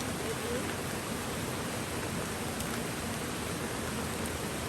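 Steady rushing water: rain falling and river water flowing together as an even, unbroken wash.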